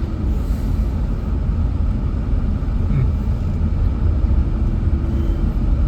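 Pickup truck driving slowly: a steady low rumble of engine and road noise.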